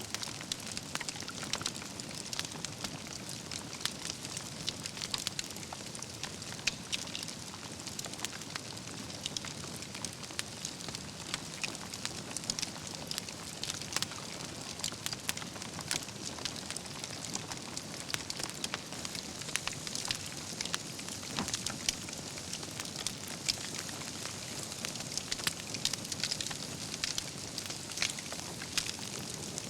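Wood campfire burning, with a steady hiss from the flames and frequent sharp crackles and pops from the logs and embers throughout.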